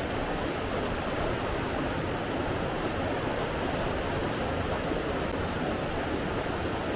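Steady rushing of flowing water, an even noise that does not rise or fall.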